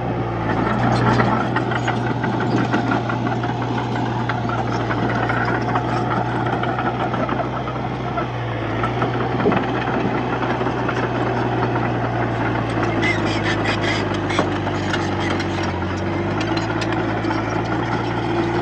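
Heavy diesel engine of earthmoving machinery running steadily under load, with a sharp knock about nine and a half seconds in and a run of metallic clicking from about thirteen to fifteen seconds in.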